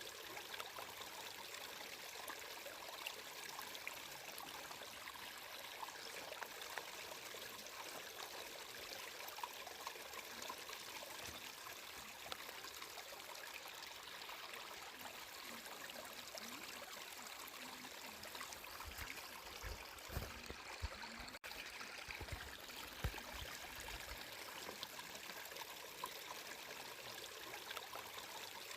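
Flowing water trickling steadily, with a few soft low thumps about two-thirds of the way through.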